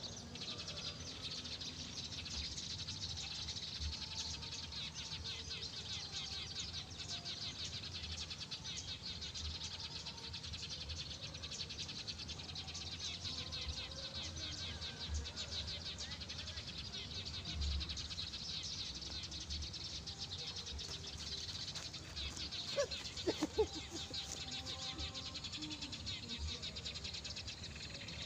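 Outdoor rice-paddy ambience: a dense, steady, high-pitched chirring chorus, with wind bumping on the microphone and a brief louder sound about three-quarters of the way through.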